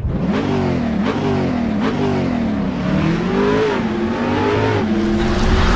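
Car engine revving up and down several times, its pitch rising and falling in repeated swoops.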